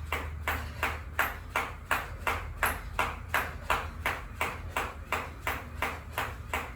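Skipping with a jump rope: the rope strikes the floor and the feet land in a steady rhythm, about three times a second, over a low steady hum.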